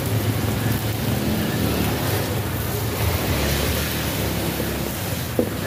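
Steady hiss of heavy rain, mixed with bánh xèo batter sizzling as it is ladled into a hot wok.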